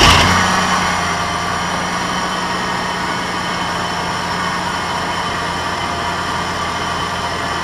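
Car engine starting up and then idling steadily, loudest as it catches and settling over the first second.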